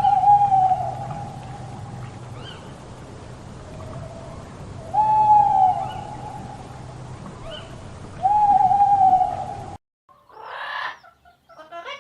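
An animal giving three long, level hooting calls a few seconds apart, each held about a second and a half and led by a short lower note. Near the end the sound cuts to a different, rougher animal call.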